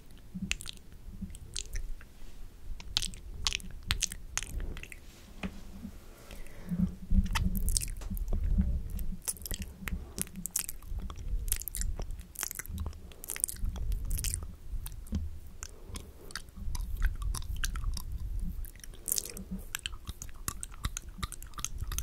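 ASMR mouth sounds close to the microphone: an irregular stream of wet clicks, pops and smacking from lips and tongue, with low rumbles of handling noise underneath.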